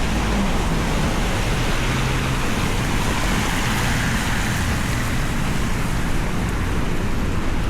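Heavy rain falling on a city street: a steady hiss that swells a little in the middle and eases again.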